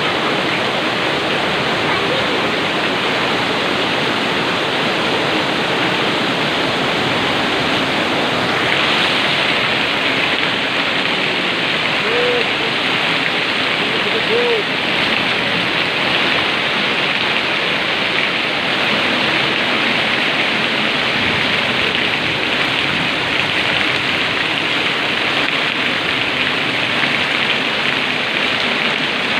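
Heavy tropical downpour: a dense, steady hiss of pouring rain, growing slightly harder about nine seconds in.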